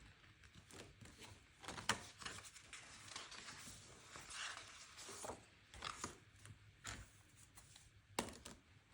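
Faint rustling and scraping of planner paper and sticker sheets being handled, with a few sharp clicks: a strong one about two seconds in and another near the end.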